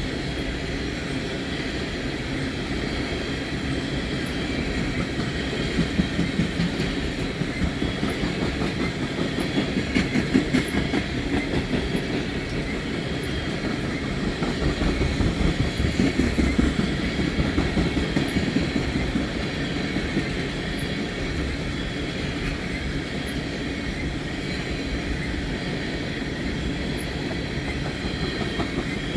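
Freight train of oil tank cars rolling past, steel wheels clicking rhythmically over the rail joints under a steady rumble, swelling louder in a few spells.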